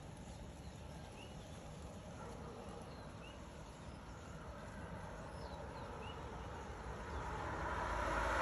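A few faint, short upswept bird chirps, spaced a second or more apart, over a steady outdoor background hiss. A broad rush of noise grows steadily louder toward the end.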